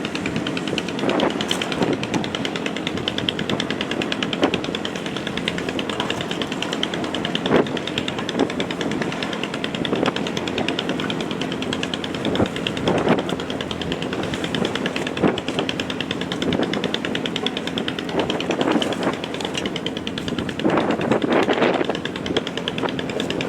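Fishing boat engine running steadily with a fast, even chatter and a low hum, with a few louder knocks along the way.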